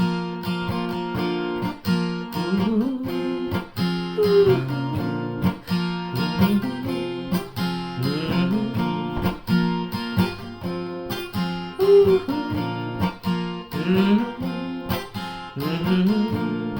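Music: an instrumental break of plucked and strummed acoustic guitar, with a melody line that slides between notes.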